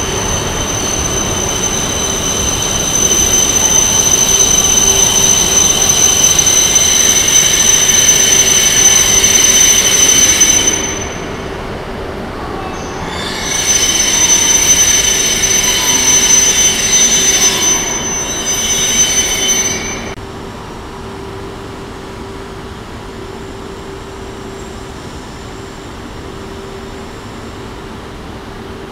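E5 series Shinkansen train moving along a station platform: a loud rushing with several steady high-pitched whining tones. It fades about eleven seconds in, returns a few seconds later, and at about twenty seconds gives way to a quieter steady hum.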